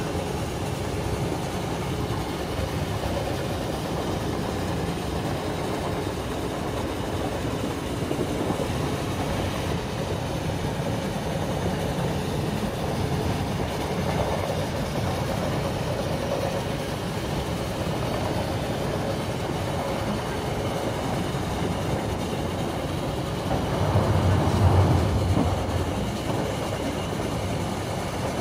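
Railway carriage rolling along at speed, heard from inside: a steady rumble of wheels on the track with a clickety-clack over rail joints. About 24 seconds in, a heavier low rumble swells for a couple of seconds and then settles back.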